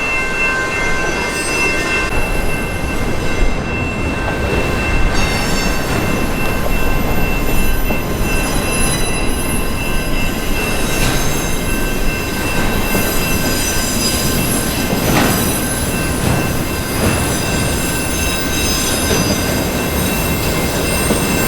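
Train rolling past at close range: a continuous rumble of steel wheels on rail, with several steady high-pitched wheel squeals over it.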